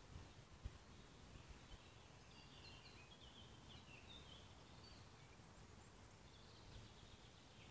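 Near silence, with faint distant birdsong: a few short chirping phrases from about two to four and a half seconds in, and another near the end. There is one faint tick under a second in.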